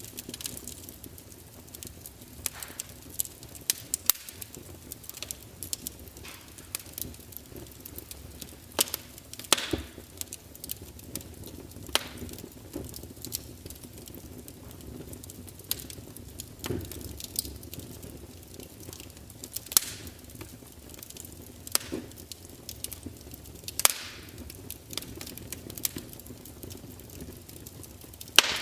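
Wood fire burning with irregular sharp crackles and pops over a low steady hiss and rumble.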